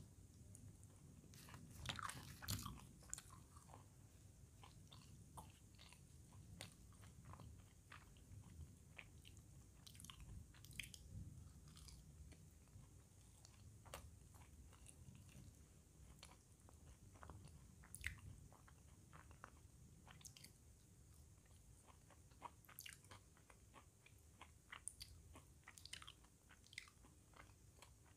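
Faint, close-up chewing and mouth sounds of someone eating fried Indian food (puri, okra fry, potato bhujiya) by hand: irregular small crunches and wet clicks, a little louder about two seconds in.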